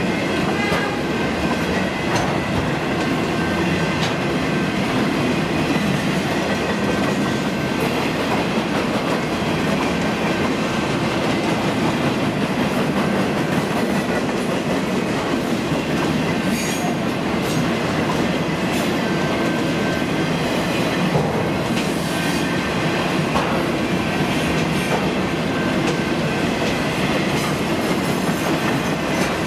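A train rolling past at track speed, its cars clattering steadily over the rails, with a faint high wheel squeal about halfway through.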